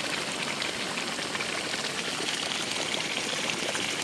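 Geothermal hot-spring water boiling, a steady bubbling and crackling rush of water heated by volcanic activity.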